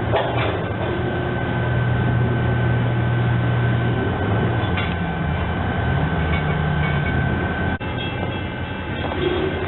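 EMD SD40-2W diesel-electric locomotive running with a steady low engine note. About two-thirds of the way in, the note steps up in pitch as the throttle is notched up.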